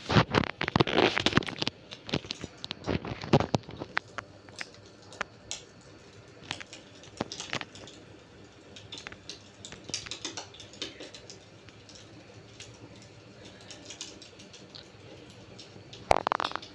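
Wood fire crackling in a fireplace: sharp pops and snaps come thick for the first few seconds, then more sparsely, with a loud burst of crackling near the end.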